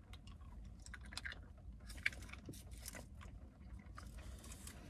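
Faint chewing of soft Fruities fruit-chew candies, with small wet mouth clicks and smacks over a low steady rumble.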